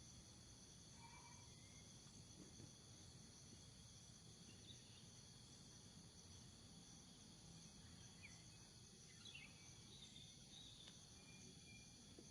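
Faint, steady chorus of insects in a pine forest, a continuous high-pitched drone, with a few brief faint chirps from about four seconds in.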